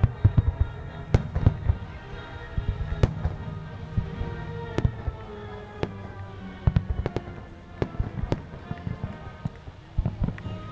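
Fireworks finale: shells bursting in a rapid series of sharp bangs, bunched in fast clusters just after the start, a little past the middle and near the end. Music plays steadily underneath.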